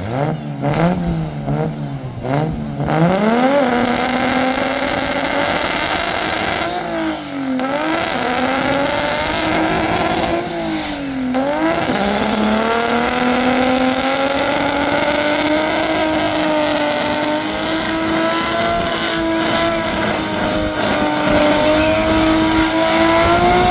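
Burnout car's V8 engine revved in quick blips for about three seconds, then held at high revs with two brief dips, climbing slowly toward the end, with the noise of spinning tyres underneath.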